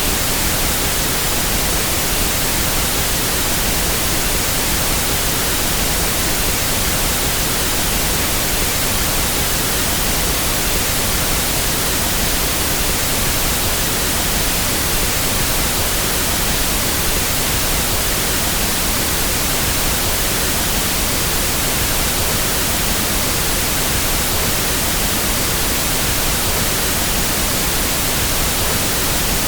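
Steady, unbroken pink noise test signal of the kind used to equalize sound equipment: an even hiss across all frequencies that does not change.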